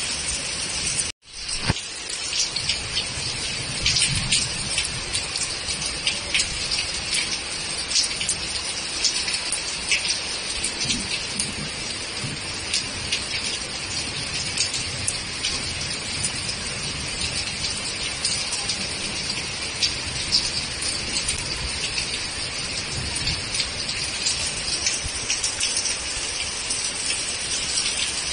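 Heavy monsoon rain pouring down: a steady rushing hiss dotted with countless sharp drop hits. The sound cuts out for an instant about a second in.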